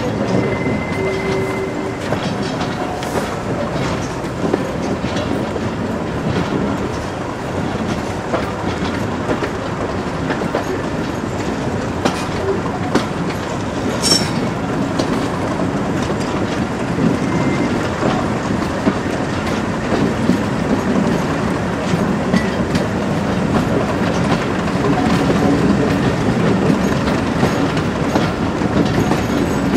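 A train running with Class 37 diesel locomotive 37109 working at the head, heard from the carriage behind: the wheels click over rail joints over a steady rumble. There is a brief high squeal about a second in.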